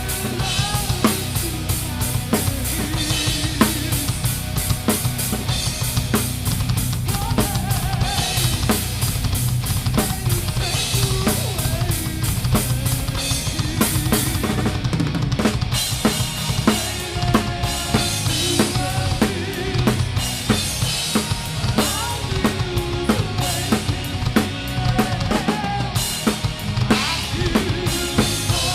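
Live metal band playing, heard from right beside the drum kit, so the Pearl Masters kit's kick drum, snare and cymbals are the loudest part, with the band's guitars underneath. The drumming is a dense run of rapid, steady strikes.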